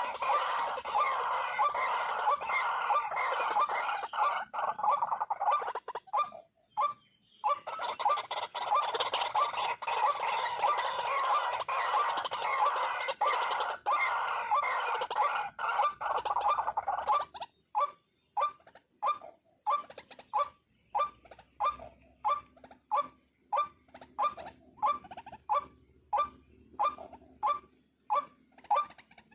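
White-breasted waterhen calling: a dense run of rapid, repeated croaking notes, then, about halfway through, a steady series of single notes about two a second.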